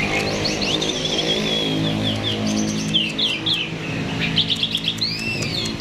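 Starling (jalak) singing in full song: a dense run of rapid chirps, whistles and short trills. A low steady hum runs underneath.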